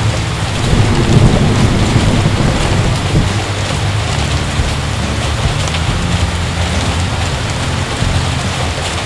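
Heavy rain falling steadily, with a low rumble of thunder swelling about a second in and fading over the next second or two.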